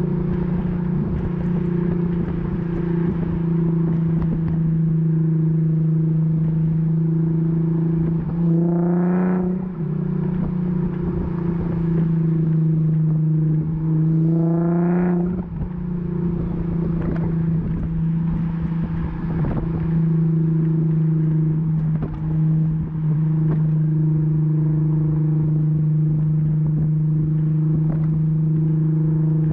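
Infiniti Q50 exhaust with an axle-back muffler delete, running at a steady drone while driving, with two brief rises in pitch about nine and fifteen seconds in.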